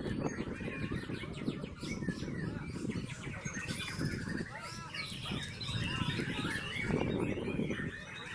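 White-rumped shama (murai batu) singing a fast, varied run of chirps and gliding whistles, over a steady low background rumble.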